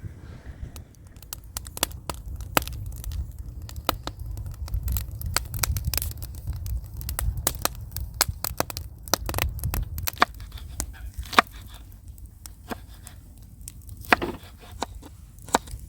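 Wood fire burning in a fire pit, crackling and popping irregularly as the resin-rich fatwood catches, over a steady low rumble.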